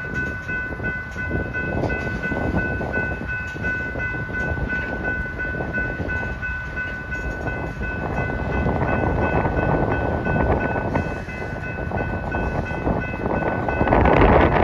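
Freight train of tank cars rolling past close by: a steady rumble and rattle of wheels on rail, with a steady high-pitched ringing tone over it. The noise grows louder about eight seconds in and again near the end.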